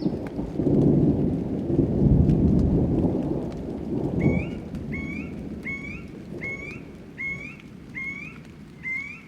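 Thunder rumbling over steady rain for the first few seconds, then, as it fades, an animal call, a short rising chirp, repeated about every three-quarters of a second over the continuing rain.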